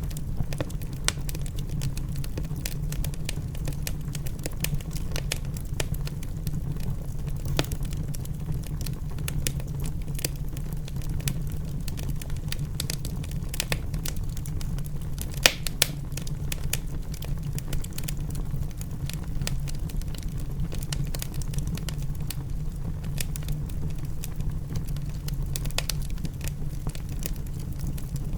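Wood fire in a fireplace crackling: irregular sharp snaps and pops over a steady low rumble, with a couple of louder pops a little past halfway.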